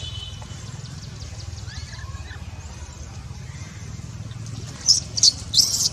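Macaques squeaking: three or four short, shrill squeaks close together near the end, over a steady low rumble, with faint chirps earlier on.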